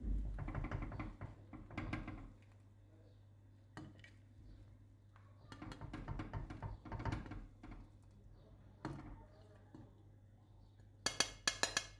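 Kitchen handling sounds: dishes and utensils knocking and clinking irregularly over a steady low hum, with a quick run of sharp clicks near the end.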